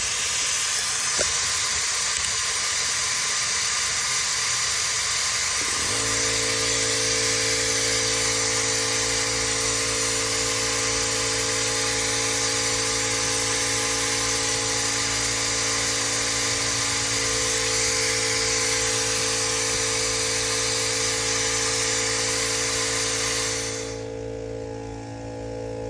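Compressed air hissing steadily through a cooling-system pressure tester into a leaking coolant system. About six seconds in, a steady motor hum starts, the air compressor running to build pressure back up. The hiss falls away near the end.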